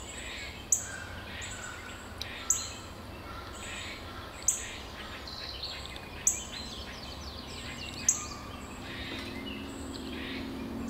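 Wild birds calling and chirping, with a sharp, high note repeated about every two seconds as the loudest sound. A faint low hum comes in near the end.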